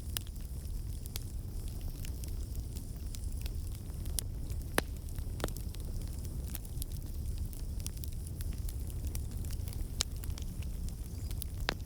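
Campfire burning: a steady low rumble of flames with irregular sharp crackles and pops, a few of them louder than the rest.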